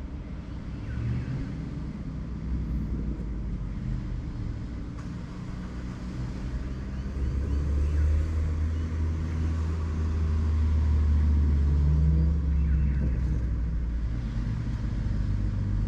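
Low, steady engine rumble that grows louder about halfway through.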